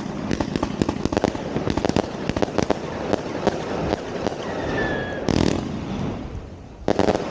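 New Year's fireworks: a dense run of bangs and crackling, with a louder burst about five seconds in and a sharp cluster of reports near the end. A faint falling whistle is heard about four seconds in.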